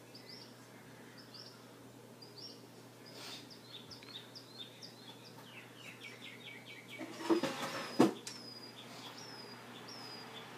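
A small bird chirping repeatedly: short falling chirps about every half second, with a quick run of notes near the middle. Two sharp knocks about a second apart in the second half are louder than the chirping.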